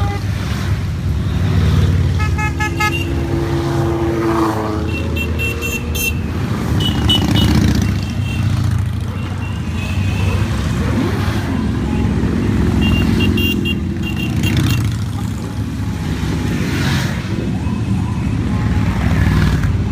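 A long stream of motorcycles riding past, their engines running in an unbroken drone that swells as groups go by. Riders' horns beep in quick series of short toots several times, about two seconds in, around five to seven seconds, and again about thirteen to fourteen seconds in.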